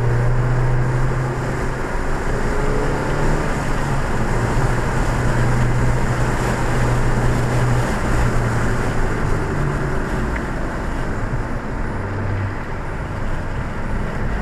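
2014 Ford Fiesta ST's turbocharged 1.6-litre four-cylinder engine running steadily at speed, heard from inside the cabin over tyre and wind noise. The engine drone holds an even pitch, easing slightly near the end.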